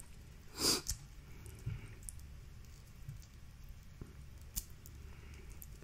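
Faint clicks and crackles of a boiled seafood shell being worked open by hand, with a short breathy rush just under a second in.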